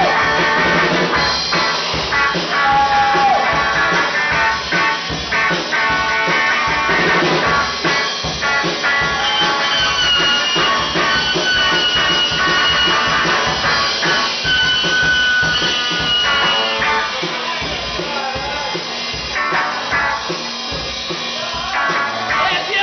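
Rock band playing, with drum kit keeping a steady beat under guitar.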